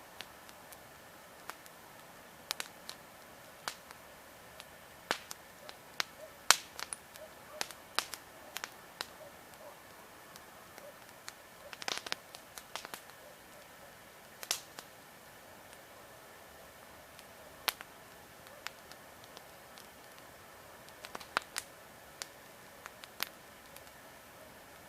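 Wood campfire crackling: burning logs give irregular sharp pops and snaps over a steady low hiss. The loudest snap comes about six and a half seconds in, and a quick run of crackles follows around twelve seconds.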